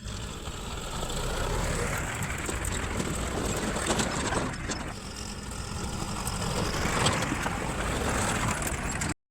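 Heavy diesel machinery engines running steadily, with a couple of sharp clanks.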